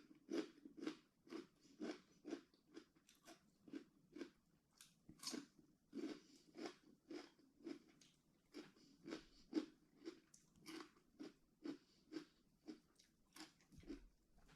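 A person chewing crunchy food with regular quiet crunching chews, about two a second.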